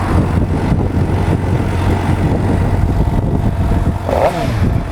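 2012 Suzuki GSX-R750's 750cc liquid-cooled inline four-cylinder engine, on its factory muffler, idling steadily, then revved once near the end with a quick rise and fall in pitch.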